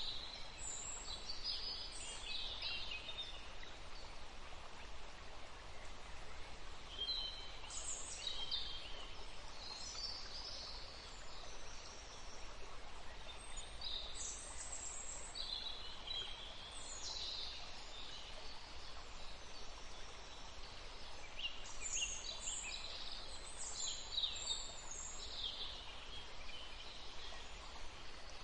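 Forest ambience: songbirds calling in scattered bursts of high chirps and short phrases over a steady background hiss.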